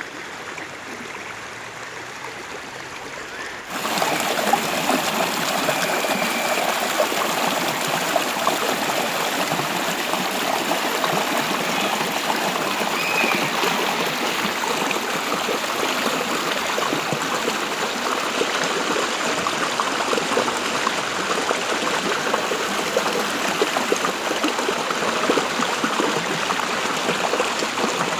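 Running water of a stream, a steady rushing and trickling. About four seconds in it switches abruptly to a louder, brighter rush and stays there.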